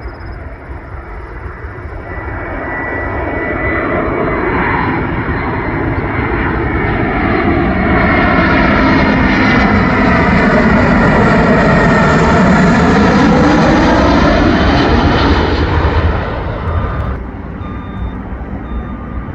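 Jet airliner passing close by: its engine noise grows louder over several seconds, peaks with a sweeping fall and rise in tone as it goes past, then drops away suddenly near the end.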